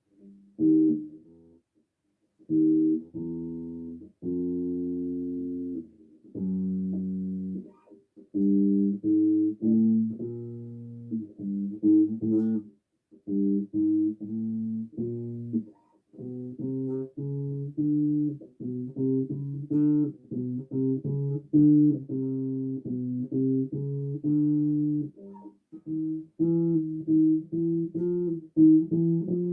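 Bass guitar played solo: a few long held notes with short pauses, then quicker runs of plucked notes from about eight seconds in.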